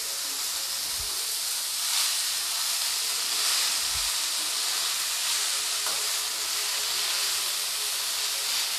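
Freshly washed, chopped drumstick (moringa) leaves hissing and sizzling in hot oil in a kadhai as they are stirred with a spatula. A steady hiss, with a couple of soft knocks from the stirring.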